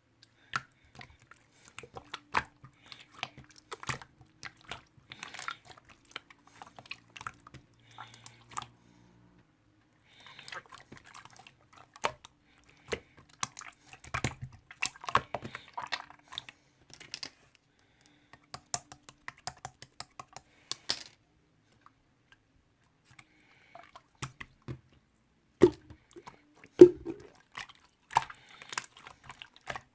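Slime being squeezed and pressed by hand, making irregular sticky clicks and small pops, with a couple of short pauses.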